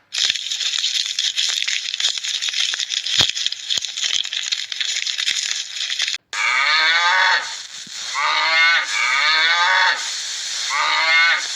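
A crackling hiss for about six seconds, then, after a sudden cut, cattle mooing in a run of short calls that fall in pitch, one after another.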